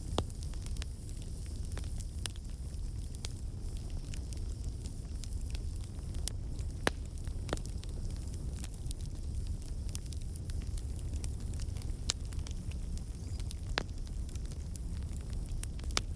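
Wood campfire burning: a steady low rumble of flames with scattered sharp crackles and pops from the burning logs, a few louder pops among many small ones.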